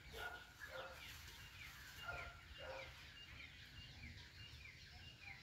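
Faint outdoor ambience with many quick, high chirps from small birds.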